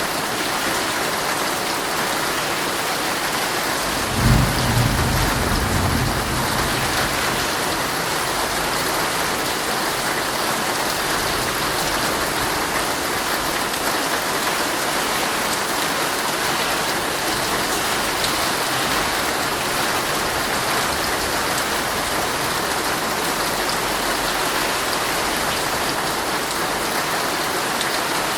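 Heavy rain drumming steadily on a tent. About four seconds in a clap of thunder breaks in low and loud, rumbling away over the next couple of seconds.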